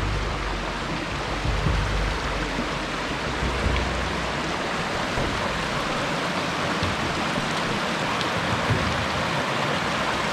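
A muddy river rushing, a steady hiss of flowing water.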